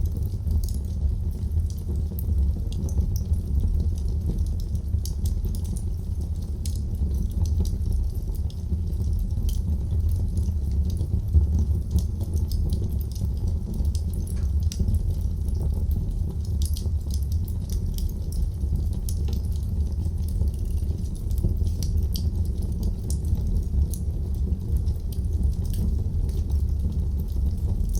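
Wood fire crackling in a fireplace: a steady low rumble of the flames with many small scattered pops and snaps.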